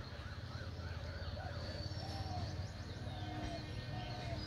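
Birds calling: a series of short arching calls repeated about once a second, with higher thin chirps, over a steady low rumble.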